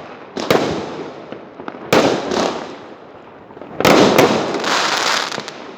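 Fireworks bursting: five sharp bangs at uneven intervals, each trailing off in a rush of noise. The last two, close together about four seconds in, are the loudest and leave the longest tail.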